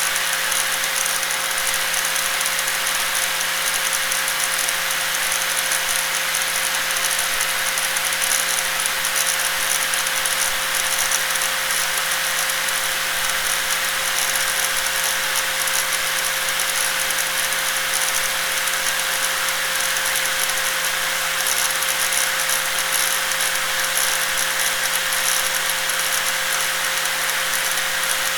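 Angle grinder running at a constant speed: a steady whine over a rattling hiss, with no change in load.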